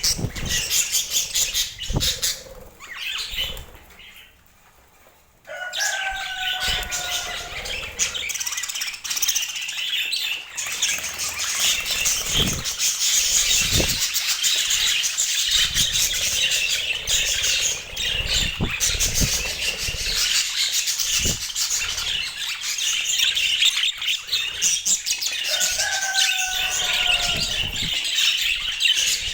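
Budgerigars chattering and warbling in a dense, continuous twitter, with scattered low thumps. The chatter drops away briefly about four seconds in, then resumes.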